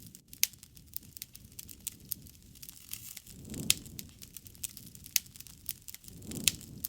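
Wood fire crackling, with a scatter of sharp pops and a few louder snaps. A low rushing swell of flame builds about three and a half seconds in and again near the end.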